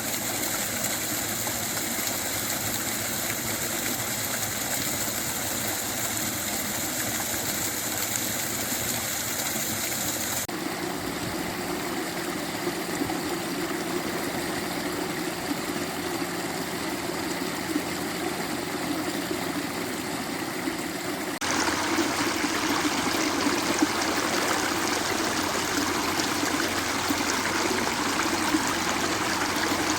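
Steady rushing of flowing water, like a burn running over rocks, with no rhythm of breaking waves. The sound changes abruptly twice, about 10 and 21 seconds in, and is louder after the second change.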